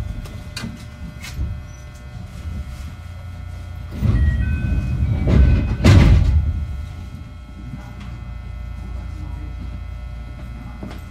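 Running sound heard inside a JR West 221 series EMU motor car, which has DC traction motors under field-added excitation control: a steady low rumble with scattered clicks of wheels over rail joints. From about four to seven seconds in it grows louder into a rushing noise, with a few brief high tones.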